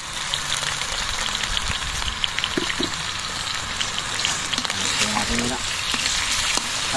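Sliced onions and tomatoes sizzling steadily as they sauté in a stainless steel wok, with small scrapes of a wooden spatula now and then.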